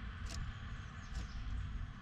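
Two brief, sharp scratches or ticks, about a third of a second and just over a second in, from a blue tit's claws and beak at a wooden birdhouse. They sit over a steady low background rumble.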